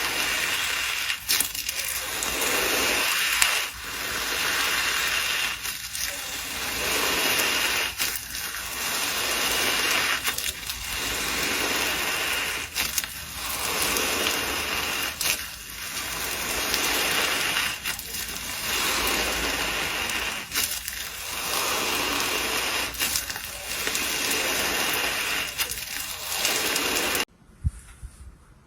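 Slime being worked by hand, a crackling, sticky noise that swells and fades in slow repeated strokes about every two and a half seconds. It breaks off suddenly near the end.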